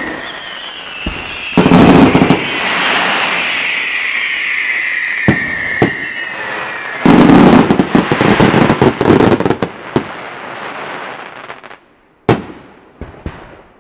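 Weco fireworks display going off: a long whistle falls slowly in pitch while two flurries of rapid bangs and crackle break out, the first about two seconds in and the second from about seven seconds in. Single sharp bangs follow, and the display thins out near the end with a last few reports.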